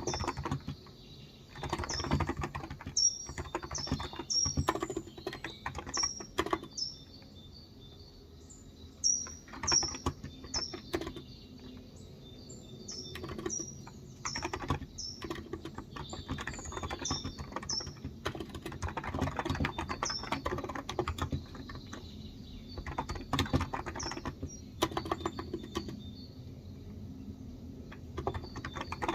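Typing on a Cox Endeavour electrostatic-capacitive keyboard with 35 g switches, in bursts with short pauses. A bird chirps repeatedly over it, short high falling notes, through the first two-thirds.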